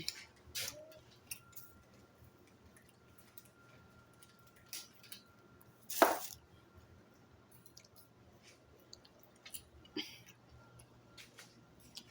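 Close-up eating sounds: wet chewing and small mouth clicks, with one sharp, loud noise about six seconds in and a smaller one about ten seconds in.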